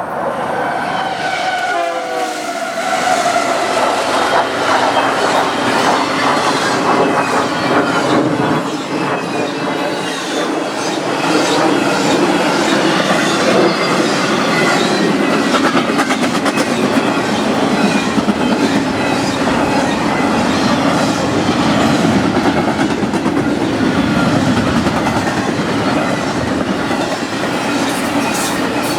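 Union Pacific diesel-powered double-stack freight train passing at speed. A locomotive horn sounds briefly near the start, its pitch dropping as it goes by. Then the diesel locomotives run and the well cars' wheels clatter steadily over the rail joints.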